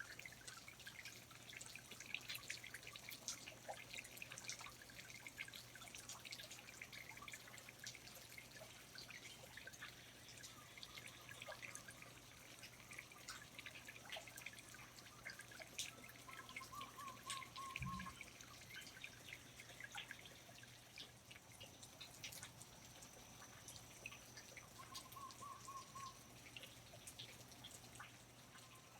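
Faint rainforest ambience: water dripping in many scattered drops. A short warbled call comes twice, and a single low thump falls about eighteen seconds in, over a steady faint low hum.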